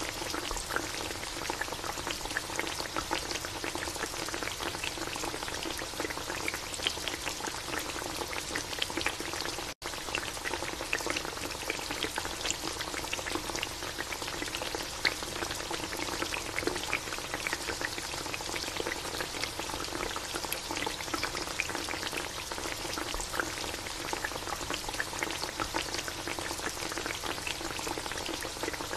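Chicken adobo simmering hard in a metal pan, the reduced soy-and-vinegar sauce bubbling and popping in a dense, steady crackle. The sound cuts out for an instant about ten seconds in.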